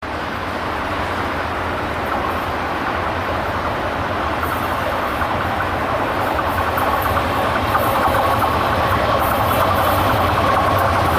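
An express passenger train approaching at speed, its engine and rail noise growing steadily louder.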